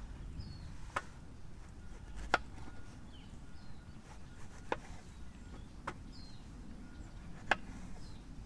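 Knife chopping on a cutting board: five separate sharp knocks about a second or more apart. Small birds chirp faintly in the background.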